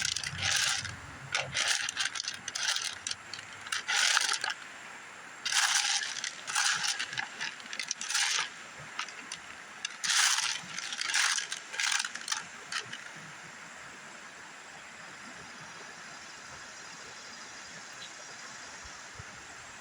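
Rocks and gravel clinking and clattering in short irregular bursts as they are handled and tossed aside, stopping about two-thirds of the way through; after that only the steady hiss of the river's flowing water.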